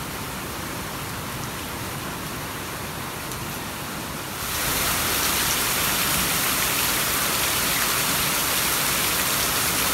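Heavy rain: a steady downpour, first heard muffled through an open doorway, then suddenly louder and closer about four and a half seconds in.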